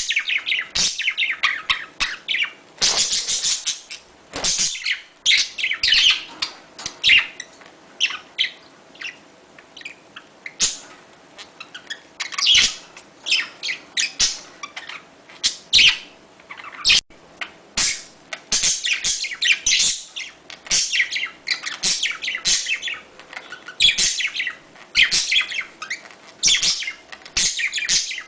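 Budgerigars chattering and warbling in a steady run of quick high chirps and clicks: budgie mating chatter, played to stimulate breeding.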